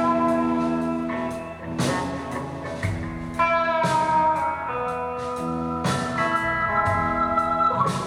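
Live rock band playing an instrumental passage between vocal lines: guitars hold sustained chords that change every second or two, with a drum or cymbal hit at each change.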